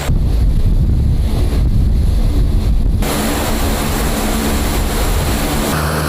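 Turboprop engines and propellers of a Lockheed C-130J Super Hercules running in a steady drone. For the first three seconds the sound is a deep, heavy rumble. It then changes abruptly to a brighter drone with steady tones.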